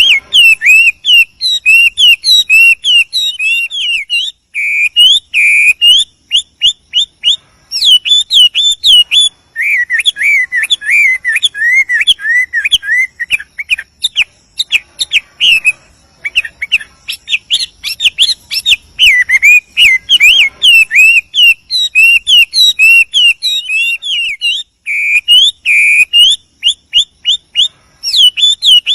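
Chinese hwamei (melodious laughingthrush) singing a long, varied song of loud, clear whistled phrases, note after note in quick runs with short pauses between phrases.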